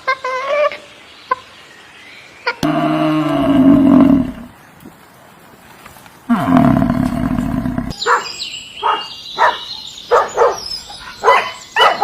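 Two loud, deep animal roars about a second and a half long each, the second one falling in pitch, followed by a fast run of short, higher-pitched animal calls.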